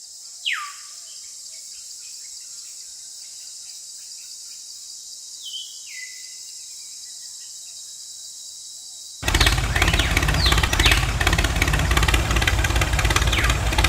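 A steady high hiss with two falling swoops. About nine seconds in, a motor starts running abruptly and loudly with a steady low hum, while birds chirp.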